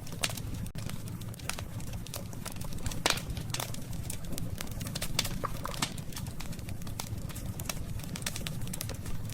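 Wood fire crackling, with frequent sharp pops and snaps over a steady low rumble of the flames; one of the loudest pops comes about three seconds in.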